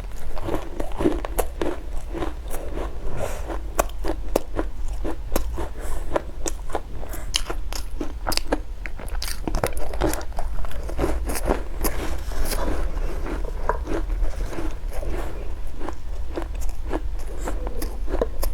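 Close-miked eating: biting into and chewing a doughnut, a dense, irregular run of sharp crunching clicks.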